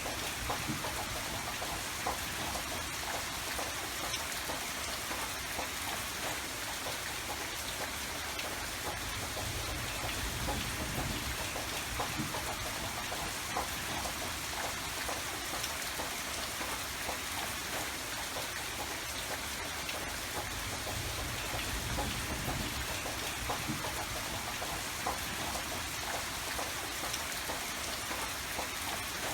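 Steady, gentle rain, with many separate drops ticking close by throughout.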